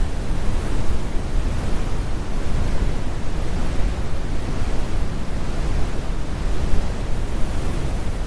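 Synthetic brown noise: a steady, deep rumbling hiss with its weight in the low end and little treble.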